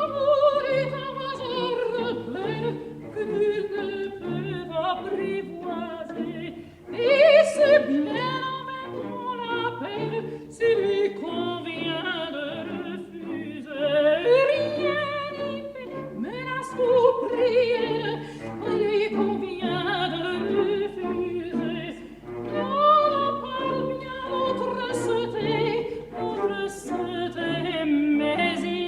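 Operatic singing: a high voice sings long phrases with vibrato, many of them falling in pitch, over orchestral accompaniment.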